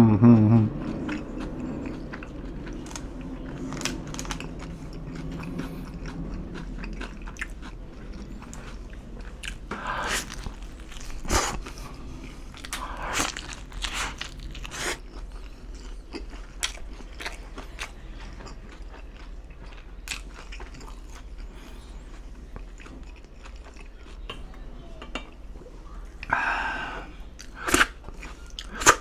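Close-miked biting and chewing of a slice of Caesar salad pizza with grilled chicken, the crust crunching in scattered bursts between quieter chewing clicks.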